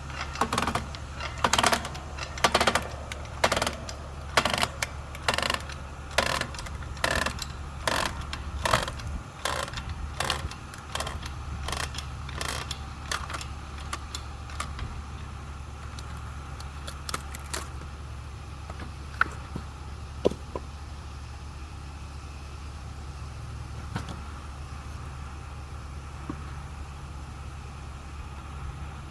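Homemade manual log splitter built from an engine hoist's hydraulic jack, pumped by hand: a rhythmic run of sharp clicks, one or two a second, that thins to a few scattered clicks about halfway through. A steady low hum runs underneath.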